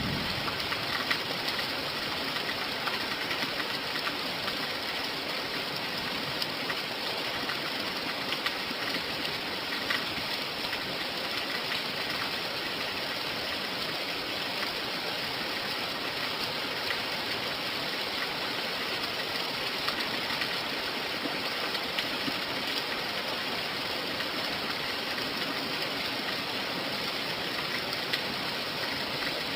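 Steady rain: a dense, even hiss with scattered drop ticks, unchanging throughout.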